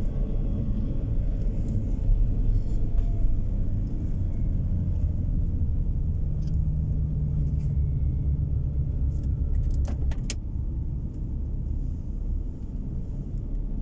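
Car driving along a road, heard from inside the cabin: a steady low rumble of engine and tyres, with a few sharp clicks about ten seconds in.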